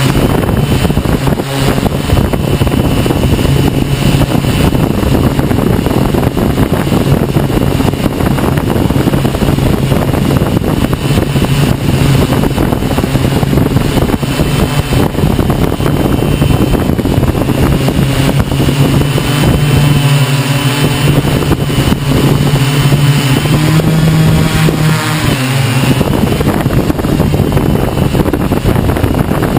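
Hexacopter motors and propellers humming steadily under heavy wind noise on the microphone. The hum rises in pitch about 24 seconds in and drops back about two seconds later.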